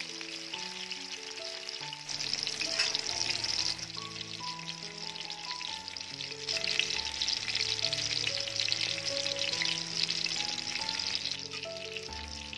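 Tofu cubes frying in hot oil in a metal wok: a dense crackling sizzle that gets louder about two seconds in and again around six seconds in, over soft instrumental background music.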